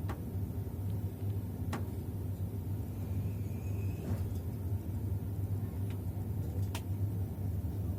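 Passenger train carriage running on the rails: a steady low rumble, with three sharp clicks about two and a half seconds apart.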